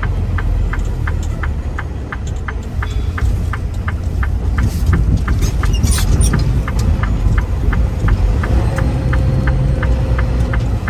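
Semi truck's diesel engine running with a steady low rumble heard inside the cab, over an even clicking of the flasher at about three clicks a second.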